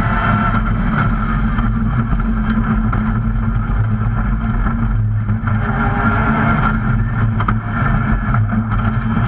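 Rally car's engine running, heard from inside the roll-caged cabin, a steady loud note that dips briefly twice, about five and a half and seven and a half seconds in.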